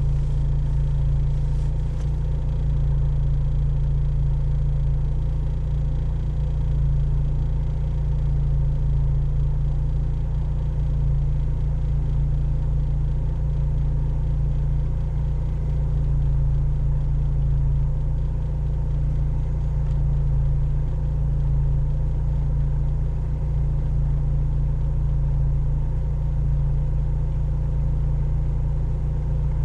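A 4x4's engine idling steadily, heard from inside the vehicle's cabin as a constant low rumble.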